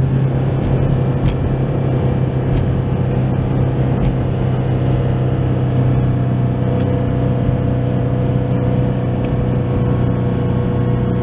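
Toyota 86's flat-four engine and Kakimoto Class KR aftermarket muffler heard from inside the cabin, a steady low drone held at an even pitch, the car cruising rather than revving.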